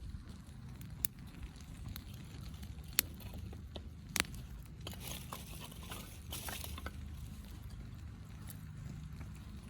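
Wood campfire crackling, with a few sharp pops about one, three and four seconds in and a stretch of hissing crackle in the middle, over a low steady rumble.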